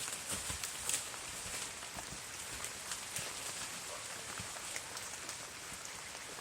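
Rain falling: a steady patter of many small drops over a hiss.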